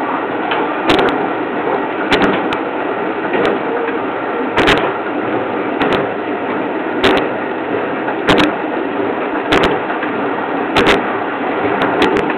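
Train running at speed, heard from the driver's cab: a steady rumble with a sharp click about every 1.2 seconds, sometimes doubled, as the wheels pass over rail joints.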